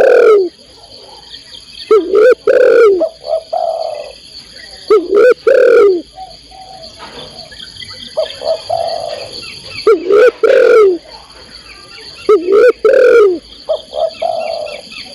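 Spotted dove (tekukur) cooing in repeated phrases of low falling notes, one every few seconds, which the title gives as a female calling to a male. A steady high insect drone runs underneath.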